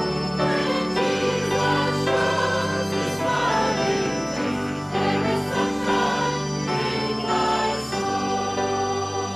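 Hymn sung by many voices with keyboard accompaniment, sustained chords changing every few seconds.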